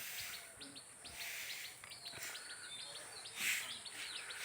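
Small birds chirping, many short quick chirps overlapping.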